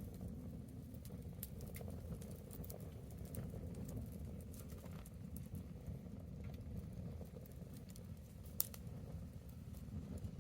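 Wood bonfire burning, with scattered crackles and pops over a steady low rumble; one sharper pop about eight and a half seconds in.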